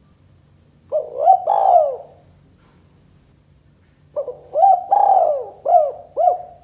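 Spotted dove (tekukur) cooing: two phrases of low, rounded coos, a short one about a second in and a longer one of about five notes starting about four seconds in.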